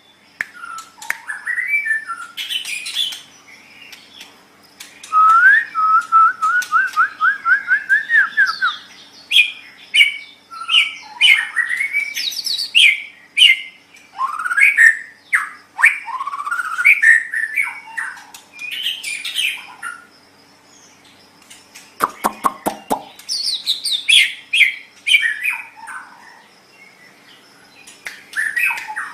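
White-rumped shama singing a varied song of loud whistles, slurs and chirps, including a quick run of about eight rising notes about five seconds in. A brief burst of rapid clicks comes about three-quarters of the way through.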